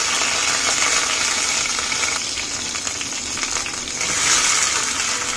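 Curry leaves sizzling in hot oil with spluttered mustard seeds, cumin and fenugreek in a small stainless steel pan: the steady high hiss of a South Indian tempering.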